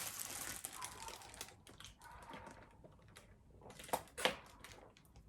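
Handling of fast-food packaging while eating: a paper rustle, then scattered light taps and clicks, with two sharper clicks about four seconds in.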